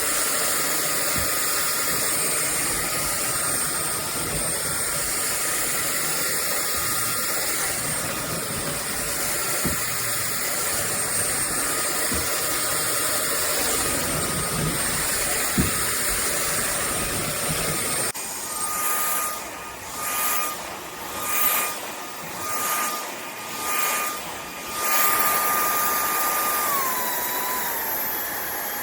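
Cordless stick vacuum cleaner running with a steady high whine. About two-thirds of the way in the sound changes abruptly and swells and dips about once a second for several seconds. Then the whine falls in pitch and climbs again near the end, as the motor's speed changes.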